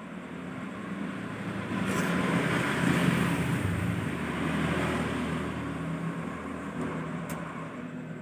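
A motor vehicle passing by, its noise swelling over a couple of seconds and then slowly fading away, with a faint click near the start and another near the end.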